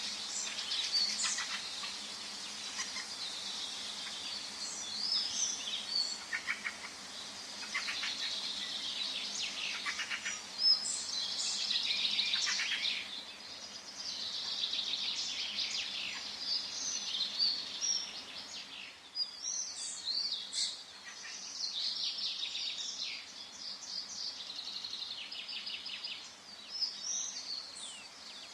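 Forest ambience: many small birds singing and chirping at once, overlapping trills and quick high notes, over a faint steady background hiss.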